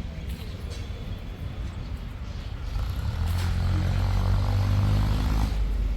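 A vehicle engine running with a low hum. It grows louder about three seconds in and eases off slightly near the end.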